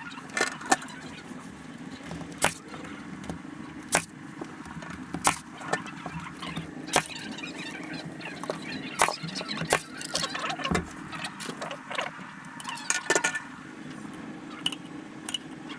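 Irregular sharp knocks and clicks, about one a second and some louder than others, over a steady low hum.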